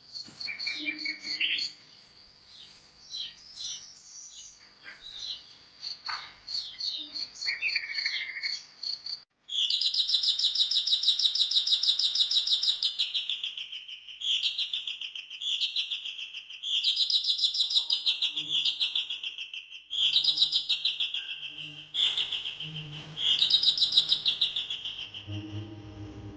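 Birds calling: mixed high chirps and whistles, then, after a cut about nine seconds in, a louder bird song of rapid trilled phrases that fall in pitch, repeated with short gaps.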